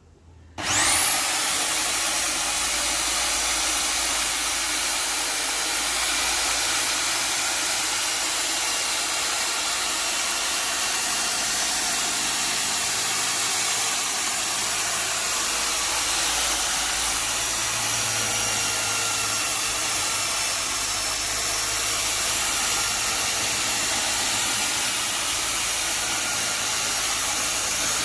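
A high-speed electric motor switches on about half a second in, spins up to a high whine within a second, and runs steadily with a loud rushing hiss.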